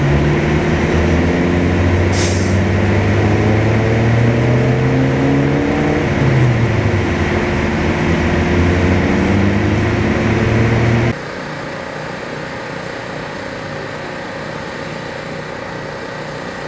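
A large idling engine from a heavy vehicle runs steadily, with a short hiss of air about two seconds in. About eleven seconds in, the sound cuts off abruptly to a quieter steady engine hum.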